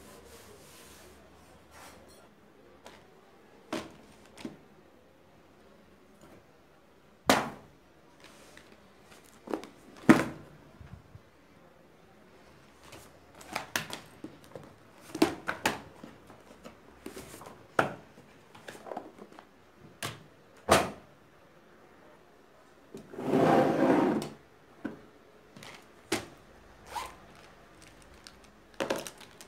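Small objects being handled and set down on a desk: scattered knocks and clicks, with a longer rasp lasting over a second about 23 seconds in.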